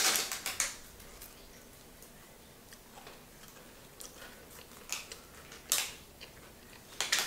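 Biting into and chewing a chocolate-coated marshmallow biscuit: a few short, crisp crunches with quiet chewing in between, the crunches coming mostly in the second half.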